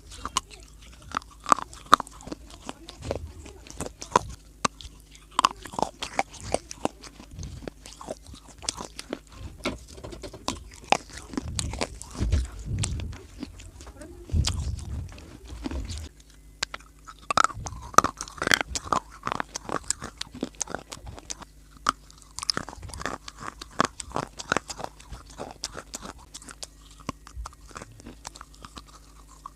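A person biting and chewing hard, dry clay, with a dense run of sharp, irregular crunches and crackles.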